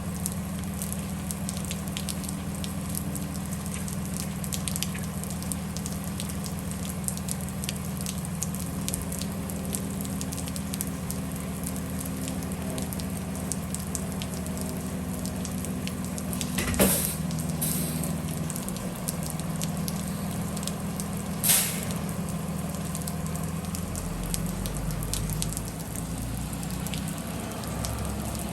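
Bus engine running steadily under a fine crackling patter of rain. Two sharp knocks come partway through, and the engine note changes near the end.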